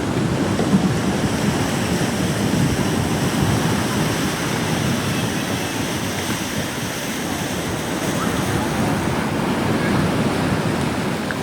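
Wind buffeting the microphone in a steady rush, with ocean surf beneath it.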